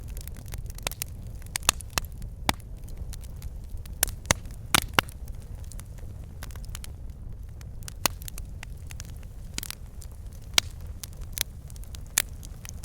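Wood fire burning in a fireplace: a steady low rumble of flames with irregular crackles and sharp pops from the logs, a cluster of louder pops about four to five seconds in.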